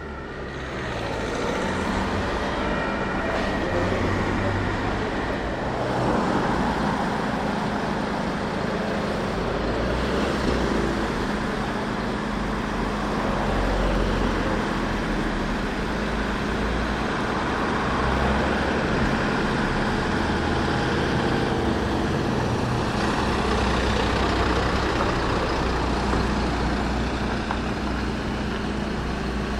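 Emergency trucks driving past on the road: heavy engines running and tyre noise, with a siren fading out in the first few seconds.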